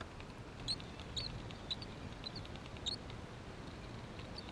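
A bird chirping: a string of short, high chirps about every half second, over a faint steady background hiss.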